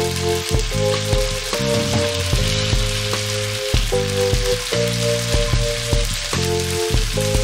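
Sabudana balls sizzling in a few drops of hot oil in an appam pan, a steady frying hiss. Over it plays background music of held notes and a bass line that change every second or so.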